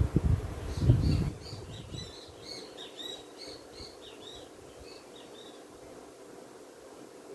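A bird singing a quick run of short chirping notes for a few seconds, over a steady buzz of bees around the open hive. A few loud low thumps come in the first second.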